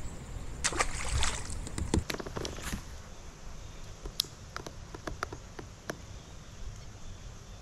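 Water splashing and sloshing at the side of a kayak for a couple of seconds, then scattered drips and small clicks, over a steady low rumble of wind on the microphone.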